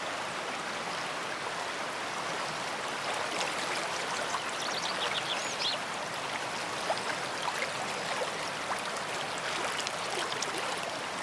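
Big river flowing: a steady, even rush of water. A few short high chirps come through about five seconds in.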